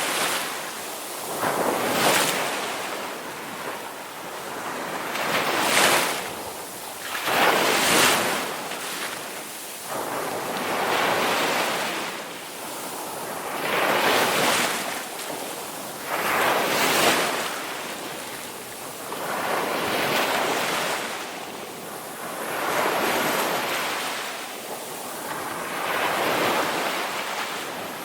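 Ocean waves breaking and washing on a shore, each surge swelling and fading every two to three seconds.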